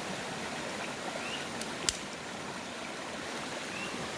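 Steady rushing of a nearby stream of running water, with a single sharp snap about two seconds in.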